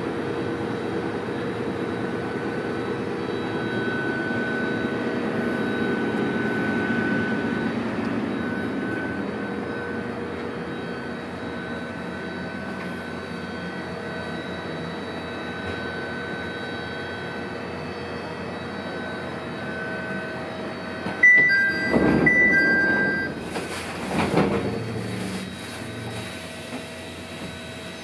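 Electric train running, heard from inside the car: a steady rumble with a motor hum, swelling a little and easing off. About 21 seconds in comes a brief two-note tone, followed by a few loud knocks.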